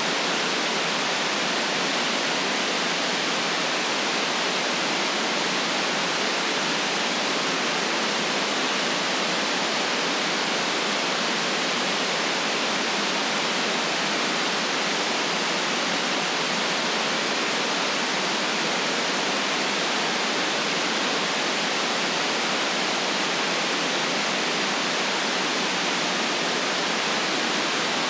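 Steady electronic white noise, an even unchanging hiss with little deep bass and nothing above a sharp upper limit.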